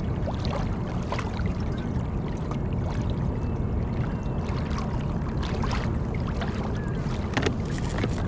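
Steady low rush of wind and water around a fishing kayak on open water, with scattered small clicks and knocks.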